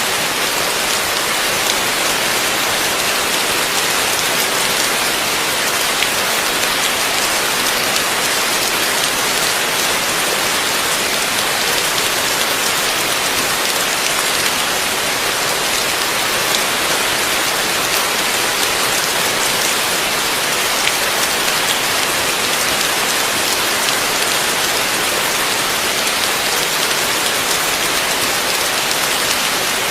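Heavy rain falling steadily, a dense even hiss of many drops with scattered individual drop ticks, unchanging throughout.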